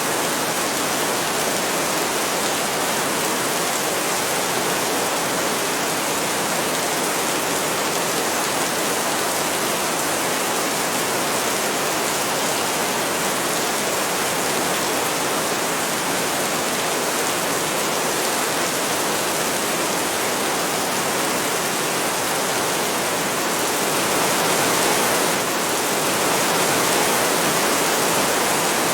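Heavy rain falling steadily as an even hiss, swelling slightly louder near the end.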